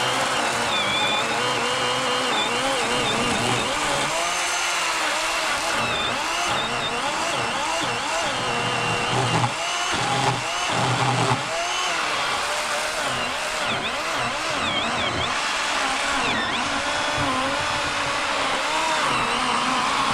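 A 40-volt Worx electric chainsaw fitted with an 18-inch Oregon bar is running steadily and making the top cut down into a fallen log. Its motor whine wavers up and down in pitch as the load on the chain changes.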